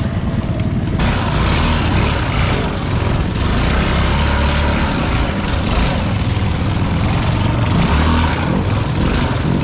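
ATV engine running steadily with a loud low rumble, over a broad wash of noise, as it is ridden through mud and water.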